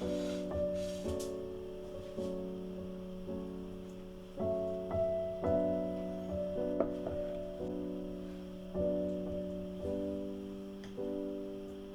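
Background piano music: slow, sustained chords, a new one struck about every second or so.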